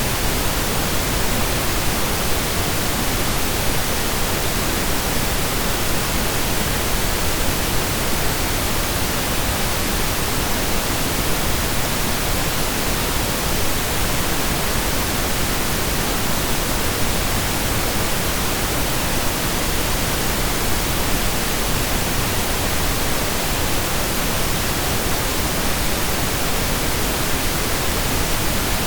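Synthesized stereo pink noise: a steady, even hiss with equal energy per octave, like steady rain or a waterfall, with no changes.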